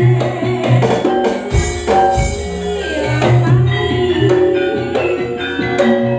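Campursari music: a Javanese ensemble of gamelan percussion, struck metal keyed instruments over a steady low drum pattern, playing an instrumental passage. The low drum pattern drops out briefly about a second and a half in, then returns.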